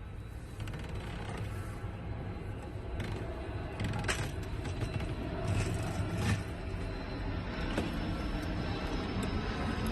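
Light clicks and scrapes of fuel pump parts being handled and fitted into the tank, a few sharp ones scattered through, over a steady low hum.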